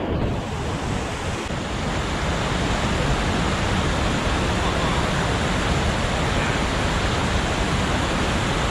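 Steady, loud rush of white water pouring through a river rapid.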